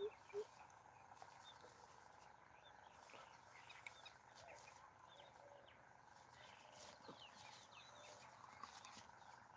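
Near silence, with faint, scattered short high chirps of distant birds. Right at the start, two short low-pitched calls close out a quick series.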